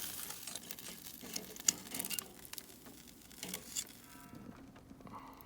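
Chicken thighs sizzling on a hot charcoal grill grate, with a few sharp clicks of tongs as the pieces are moved around. The sizzle stops suddenly about four seconds in.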